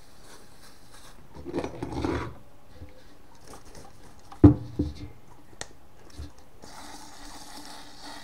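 Metal gas mask tin being handled and worked: a brief scraping rub, then a sharp knock with a short metallic ring and a second, lighter knock, followed by a few small clicks.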